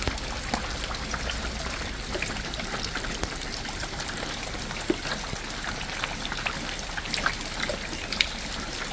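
Steady rain falling, with many small drips and drops striking close by.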